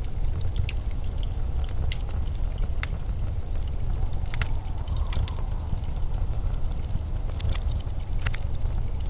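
Blizzard wind as a steady deep rumble, with scattered sharp clicks and crackles over it and a faint whistle that rises briefly about halfway through.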